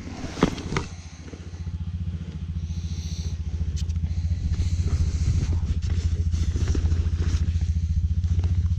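A small engine running close by with a steady, rapid low pulsing, growing louder over the first few seconds and then holding level. A couple of sharp knocks sound in the first second.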